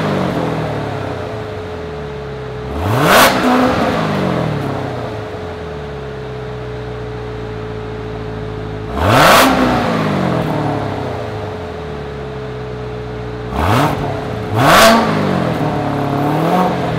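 2016 Corvette Z06's supercharged 6.2-litre LT4 V8 idling and being revved in quick blips through its exhaust. It revs about three seconds in, again about nine seconds in, twice in quick succession around fourteen to fifteen seconds, and once more, smaller, near the end, each time rising sharply and settling back to idle.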